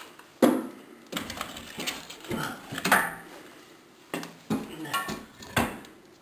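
Split ash firewood being loaded into a wood stove: about eight sharp wooden knocks and clunks against other logs and the metal firebox, at an uneven pace.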